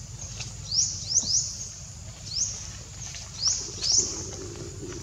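A bird calling repeatedly: short, high chirps that each rise sharply in pitch, several of them at uneven spacing.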